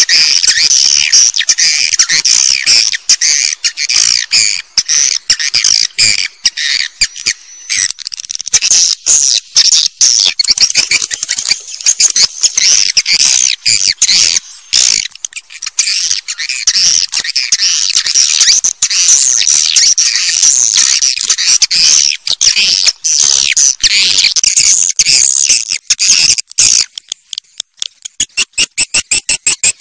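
Swiftlets twittering: a dense, continuous high chirping, breaking near the end into a fast, even train of clicks. This is the kind of recorded swiftlet call played in swiftlet houses to draw the birds in to nest.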